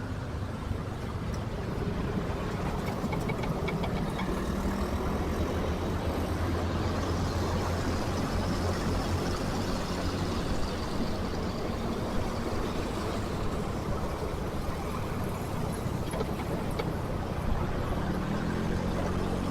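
Motorcycle engine running while riding in dense city traffic, with a steady low hum under road and traffic noise; the hum strengthens for a few seconds midway.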